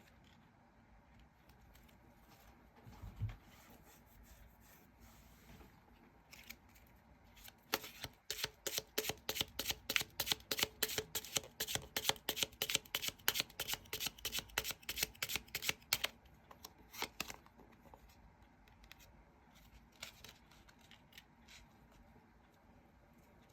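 A tarot deck being shuffled by hand: a fast run of crisp card slaps, about five a second, lasting some eight seconds, with scattered single card sounds before and after it. A soft thump sounds a few seconds in.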